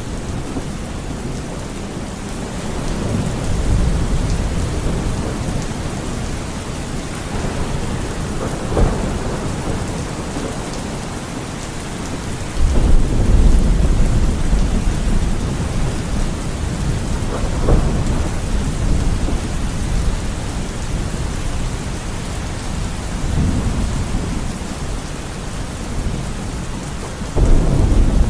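Steady rain with rolling thunder: several low rumbles swell and fade over the rain, the loudest breaking in suddenly about halfway through and another starting sharply near the end.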